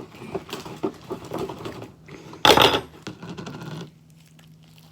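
Quick clicks and taps of plastic containers and a mixing utensil being handled while working sticky slime, with one louder rustling burst about two and a half seconds in; then it goes quiet.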